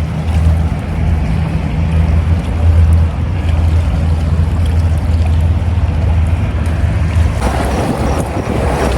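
Wind buffeting the microphone in a steady low rumble, with a hissier gust rising near the end.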